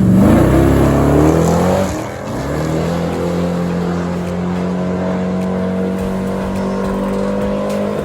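A race car's engine revving up over the first two seconds, dropping briefly, then held at a steady high pitch.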